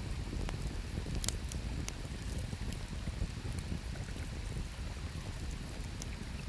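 Wood campfire crackling, with scattered sharp pops and one louder snap about a second in, over the steady low rush of flowing river water.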